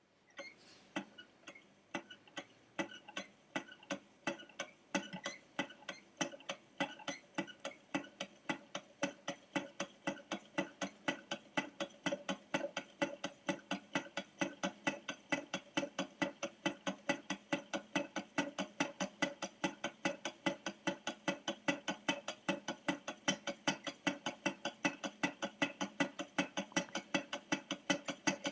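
Mug-top Stirling engine running on a cup of hot water, its mechanism clicking with each turn of the flywheel. The ticking speeds up from about two clicks a second to about three a second as the engine gathers speed.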